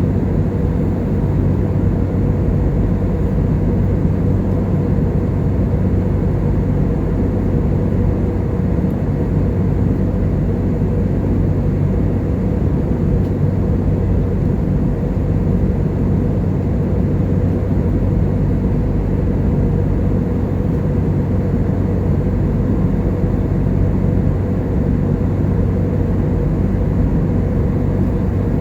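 Steady cabin drone of an airliner in flight: jet engine and airflow noise, a low even rumble with a steady hum under it.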